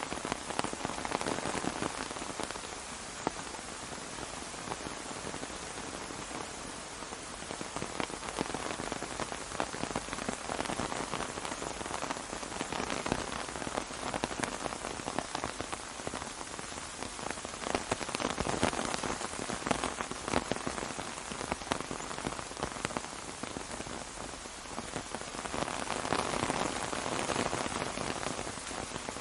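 Steady rain falling on an umbrella, a dense hiss of many small drop hits that swells louder and eases off every several seconds.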